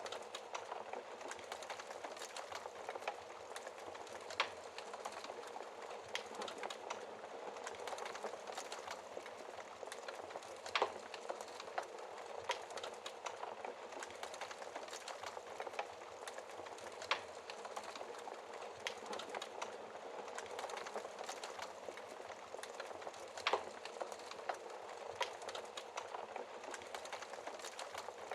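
Wood fire crackling in a fireplace: a steady hiss with irregular sharp pops and snaps, a few of them louder.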